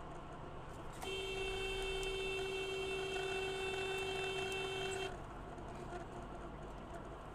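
Car horn held in one steady blast of about four seconds, starting about a second in and cutting off suddenly, over steady road noise.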